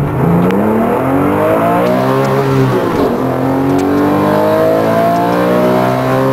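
Porsche 996 GT3's flat-six engine and exhaust accelerating hard, its note climbing in pitch, dropping sharply with an upshift about three seconds in, then climbing again through the next gear.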